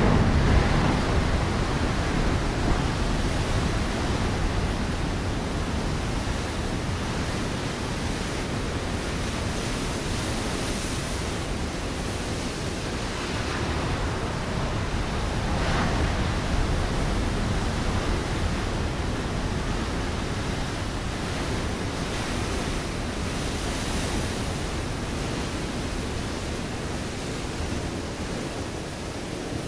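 Ocean waves breaking on a rocky shore: a steady wash of surf, with the loudest wave right at the start and another swelling up about halfway through.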